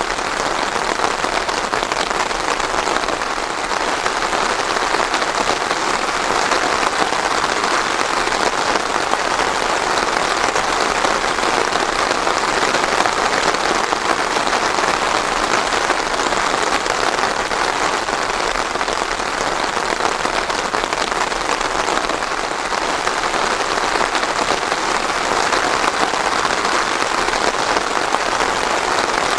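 Steady rain falling and pattering on a surface, an even hiss of many drops with no thunder.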